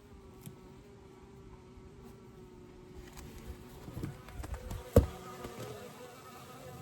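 Honeybees buzzing, one flying close with a steady hum, and a few soft knocks followed by a single sharp knock about five seconds in.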